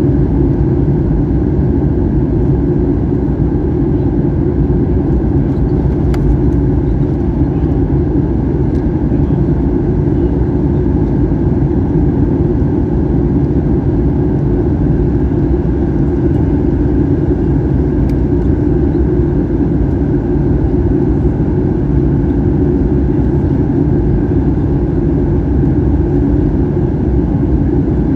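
Steady cabin noise inside a Boeing 737-800 airliner: a loud, even rumble from the CFM56 jet engines and the airflow.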